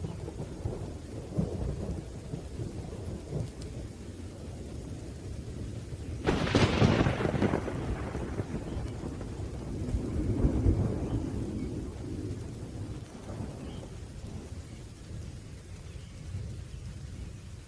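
Thunderstorm: low rolling thunder over steady rain, with a sharp thunderclap about six seconds in that rumbles away over a couple of seconds, and another swell of rumbling a few seconds later.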